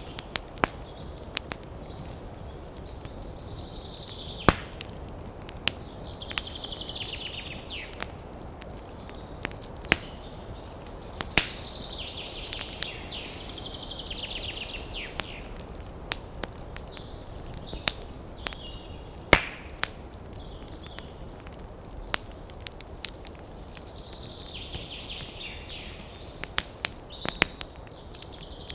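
Wood fire crackling, with sharp irregular pops and snaps over a soft steady hiss. Bursts of high, rapidly trilling bird calls come and go several times.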